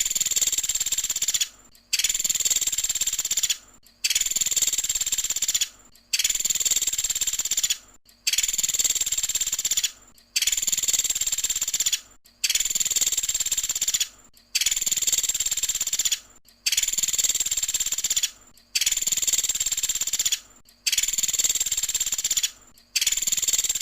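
Pelatuk sampit bird giving its high, trilling 'tembakan' (shooting) call. Each burst lasts about a second and a half and repeats about every two seconds with short gaps, as in a looped tutor recording.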